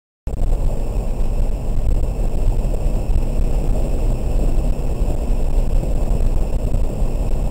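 Steady low rumble inside the cabin of a 2003 BMW 330i ZHP driving on a wet track, its straight-six engine mixed with tyre and road noise. It cuts in abruptly just after the start.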